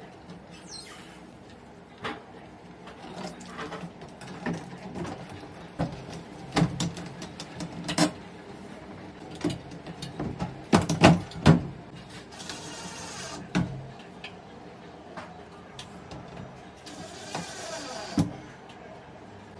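Knocks, clicks and scraping as a bathroom exhaust fan is fitted by hand, with a cluster of loud knocks about halfway through and two stretches of scraping later on. A faint steady low hum sits underneath.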